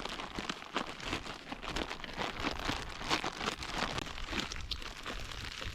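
Camping bread dough being mixed by hand: a steady run of small, irregular crackles and rustles.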